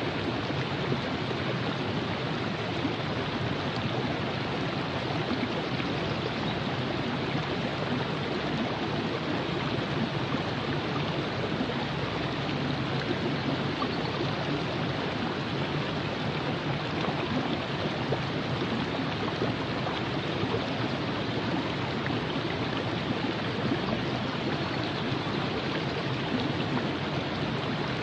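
Virgin River flowing over rocks: a steady, even rush and babble of water.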